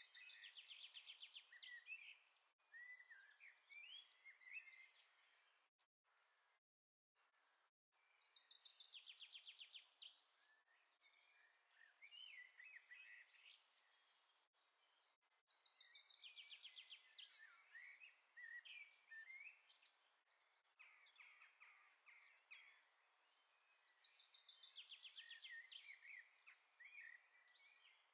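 Small songbirds singing: a fast, rattling trill phrase comes four times, about every eight seconds, with scattered chirps between. The sound drops out briefly about six seconds in.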